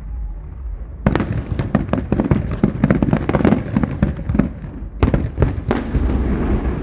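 Aerial fireworks going off in a rapid barrage of sharp cracks and bangs, starting about a second in. After a brief pause a few more bangs follow, trailing off into a rumble.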